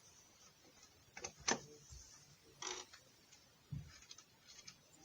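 Scattered clicks and knocks of hand tools on skateboard truck hardware as a truck mounting bolt is unscrewed. The sharpest click comes about a second and a half in and another a second later, followed by a dull knock and a few faint ticks.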